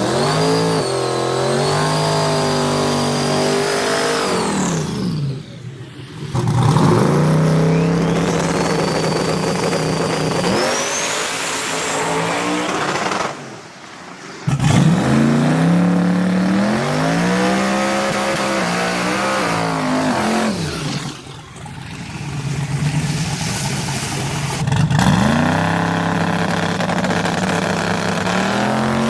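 LS V8 race truck engines revving and running hard, their pitch climbing and falling several times, with a high whine rising above the engine note. The sound drops away briefly about three times.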